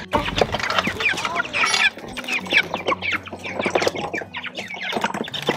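A flock of Cornish Cross meat-bird chicks peeping, many short falling calls overlapping one another, with a few sharp clicks among them.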